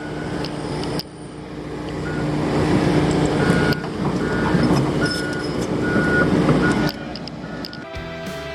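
Heavy vehicle engine running and growing louder, with its backup alarm beeping repeatedly from about three seconds in; the engine sound drops away suddenly near the end.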